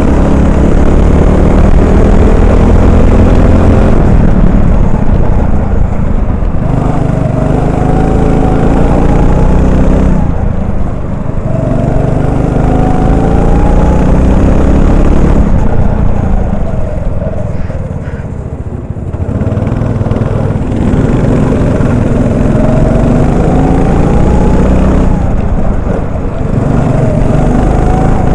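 Onboard sound of a Honda 390 single-cylinder four-stroke kart engine, rising in pitch again and again as it pulls down the straights and falling off into the corners. It eases off most deeply about eleven seconds in and again around eighteen seconds.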